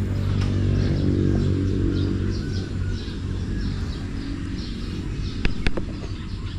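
Small birds chirping repeatedly over a steady low hum, with two sharp clicks about five and a half seconds in.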